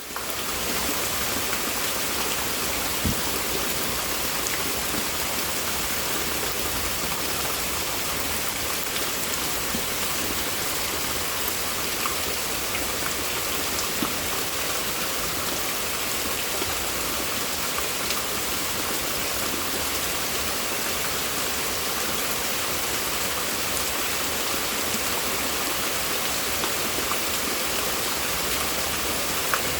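Heavy, steady rain falling and pattering on surfaces, with a few faint drop impacts.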